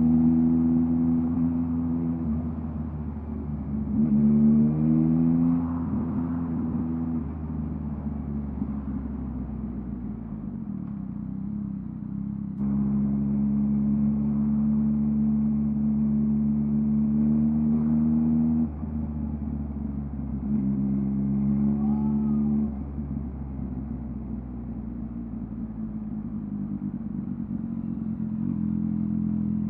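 2023 Yamaha MT-09's 890 cc inline three-cylinder engine through a LeoVince LV Race exhaust, riding along at a steady part-throttle cruise. The pitch climbs a few seconds in and again about two-thirds of the way through. The level drops suddenly each time the throttle closes.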